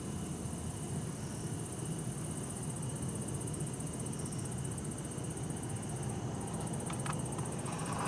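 Night insects trilling steadily, bell crickets among them, in several high overlapping songs. Under them runs a low, even rumble of distant city traffic.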